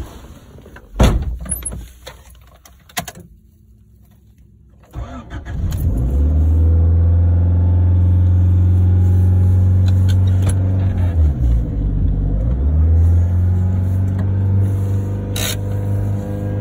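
A loud thump about a second in, then the Honda Civic VX's D15Z1 1.5-litre four-cylinder starts up about five seconds in and runs at a high cold idle, near 2,000 rpm on the tachometer, with a brief dip in pitch about eleven seconds in. The high, climbing cold idle is the fault under investigation.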